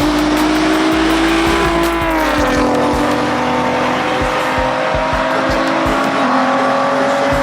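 Car engine held at high revs, its pitch dropping about two seconds in and then holding steady, over a loud hiss of noise.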